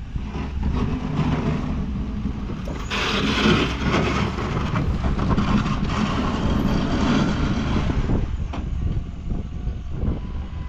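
Engine of a snowplowing vehicle running steadily, with a louder rushing noise from about three to eight seconds in.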